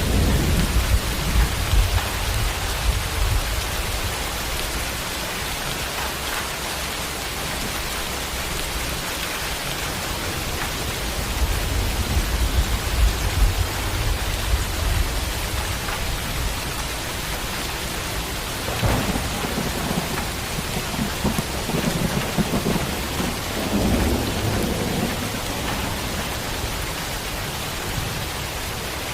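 Steady heavy rain hissing, with thunder rumbling low in the background: it swells near the start, again about twelve seconds in, and a third time in the last third.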